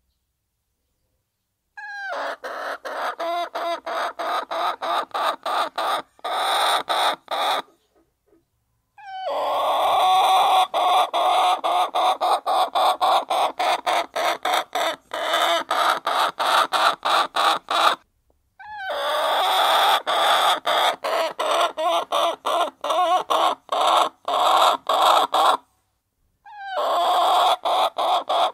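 A flock of hens clucking while pecking at feed, the pecks coming as rapid sharp taps, about four a second, over continuous clucking. The sound comes in stretches that start and stop abruptly, with short gaps of silence between them.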